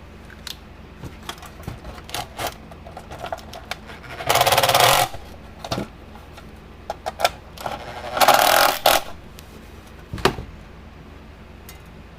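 Small metal hardware clicking and tapping as the charger is put back together, with two bursts of about a second each of a hand tool running nuts down onto the bolts, and a single sharper knock near the end.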